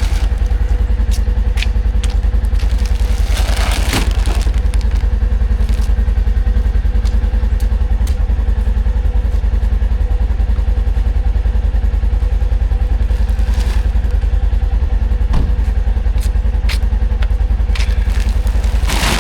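A vehicle engine idling steadily with an even, rapid low pulse, and a few knocks and clatters over it.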